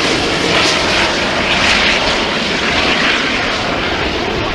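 Jet engines of an Airbus A380 airliner on its landing, a loud rushing engine noise that swells and eases about once a second.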